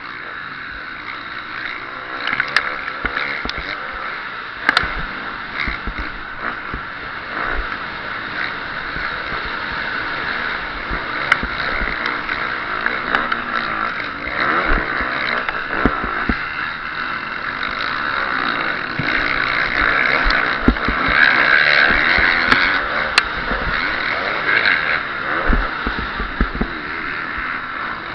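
KTM 350 SX-F four-stroke single-cylinder motocross engine, heard onboard, revving up and down as the bike is ridden hard around the track, with rushing wind and scattered sharp knocks. It gets louder about two-thirds of the way through.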